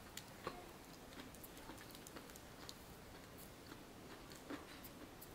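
Faint chewing of a bánh mì sandwich, with scattered small crunches of the bread crust and soft mouth clicks.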